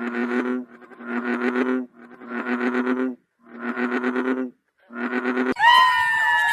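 An animal calling five times in a row, each call under a second with a rapid pulsing buzz. Near the end a different, higher call starts suddenly and falls in pitch with a wavering tremble.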